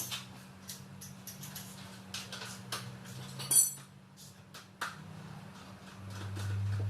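Metal tools and parts clinking and tapping during engine work, with one louder ringing metallic clank about three and a half seconds in. A steady low hum runs underneath and swells louder near the end.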